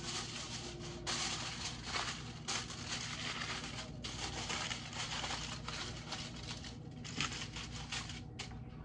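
Food sizzling and crackling in a hot frying pan as it is worked at the stove, coming in several surges a second or so long with brief drops between them. A steady low hum runs underneath.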